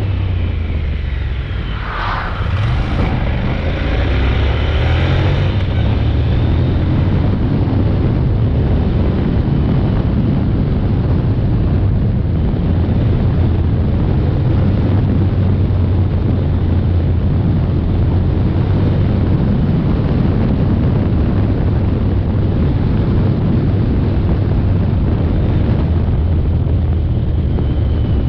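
Honda NC750X motorcycle's parallel-twin engine running as the bike is ridden along: a steady low drone under heavy wind rush on the microphone. It eases briefly about two seconds in.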